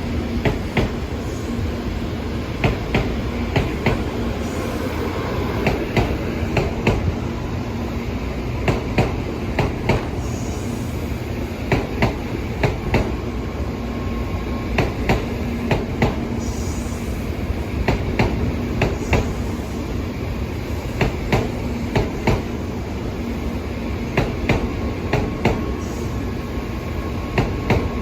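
Shinkansen train running along the line: a steady rolling rumble with small clusters of sharp clicks every second or two as the wheels pass over the track.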